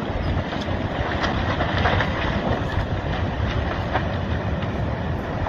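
Landslide rumbling as a mass of earth slides into the sea, a steady noisy roar with a few faint cracks in the first half, mixed with wind on the microphone.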